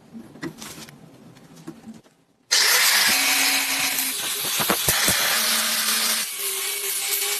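Handheld electric power tool running, starting abruptly about two and a half seconds in. It gives a loud, rough noise over a motor tone that shifts in pitch several times, as if pressed harder or lighter against the work.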